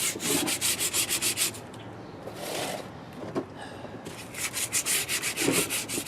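Hand sanding: rapid back-and-forth strokes of abrasive rubbed over a surface, about five strokes a second. The strokes pause for a couple of seconds in the middle, then start again.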